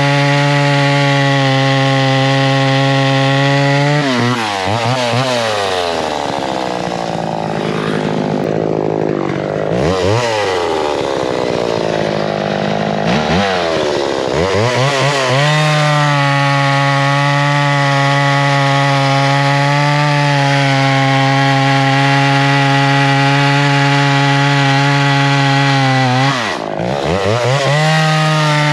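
Big vintage two-stroke chainsaw running at high speed. Between about four and sixteen seconds in, its pitch drops and swings up and down several times as the revs fall and recover, then it holds steady at full speed, with one sharp dip and recovery near the end.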